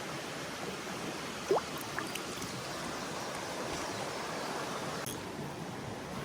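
Mountain stream water rushing steadily. A brief rising squeak cuts through about one and a half seconds in, with a fainter one just after.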